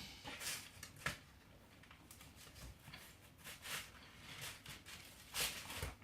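Faint, scattered small noises of people eating pizza: chewing and food handling, with a louder one about five and a half seconds in.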